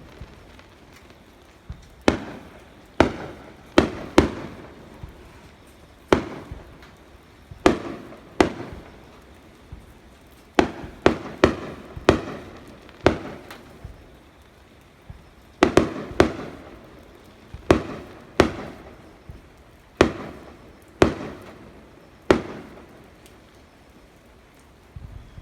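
Aerial firework shells bursting overhead: sharp bangs every second or two, sometimes two or three in quick succession, each trailing off in a rumbling tail, with a short lull near the end.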